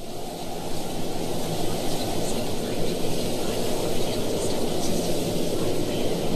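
Steady low rumbling noise with a faint hum and a hiss above it, unchanging throughout, the background noise of an FM radio broadcast recording.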